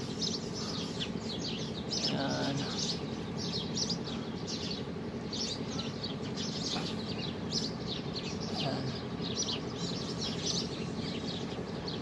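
A flock of small birds chirping, with many quick, high chirps overlapping one another without a break.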